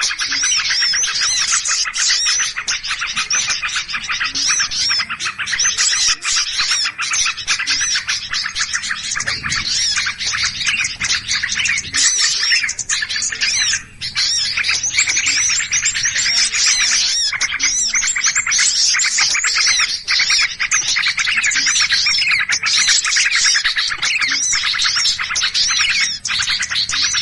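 Many small birds chattering and chirping excitedly all at once in a dense, unbroken flurry of rapid high calls: a lure recording of agitated small birds, played to draw other small birds in.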